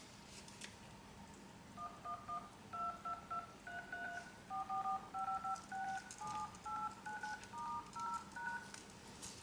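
Phone keypad touch-tones (DTMF) as a number is keyed in: about twenty short two-tone beeps in quick runs, each key a different tone pair.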